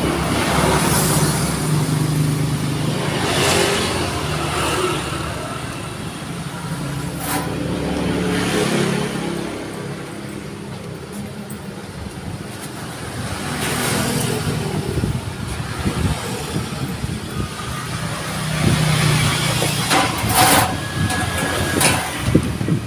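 A motor vehicle engine running, its pitch slowly rising and falling, with a few separate knocks.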